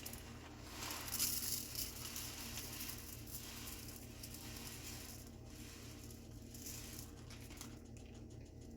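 Dry rice grains pouring and rustling into a measuring cup, loudest about a second in, then a fainter rustle.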